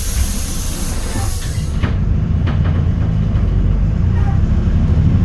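Hyundai New Super Aero City bus's Euro 6 diesel engine running with a low, steady rumble. A loud hiss sits over it at first and cuts off suddenly about two seconds in, after which the engine rumble grows a little louder.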